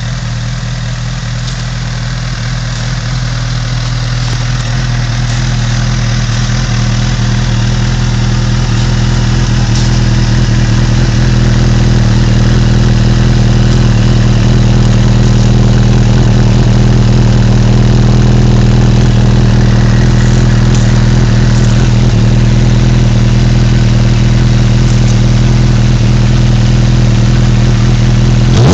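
Honda CB1000R's inline-four engine idling steadily through a MIVV Suono carbon slip-on exhaust with the dB killer baffle removed. It grows louder over the first ten seconds or so, then holds steady.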